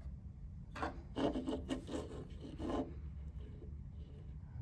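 Handling noise: a quick run of short scraping, rubbing strokes, about half a dozen in two seconds, starting about a second in, over a steady low hum.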